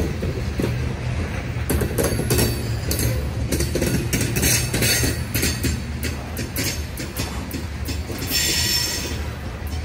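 Freight train of covered hopper cars rolling past close by: a steady low rumble of steel wheels on rail with frequent clicks and clanks from the passing cars. A brief high wheel squeal comes in about eight seconds in.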